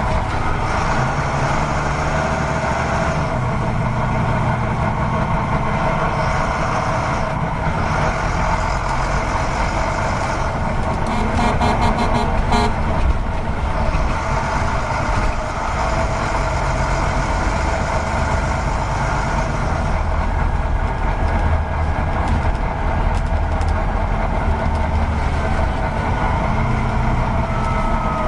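Truck engine running steadily, with a high whine that comes and goes several times and a short run of rapid clicks about eleven seconds in.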